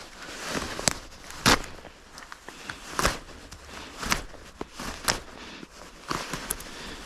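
A wooden branch being handled and worked in the woods: rustling on the forest floor broken by several sharp cracks and knocks of wood, the loudest about one and a half seconds in.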